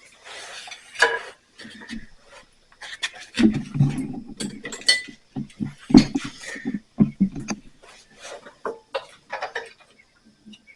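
Hand tools and mower carburetor parts clicking, knocking and scraping in an irregular run as a plastic-bodied carburetor is worked loose. The loudest knocks come about a second in and around the middle. Crickets chirr steadily underneath.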